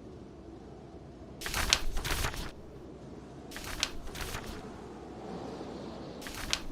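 Book pages being turned: a papery rustle about a second and a half in, another near four seconds, and a third near the end. Under them runs a steady low blizzard wind.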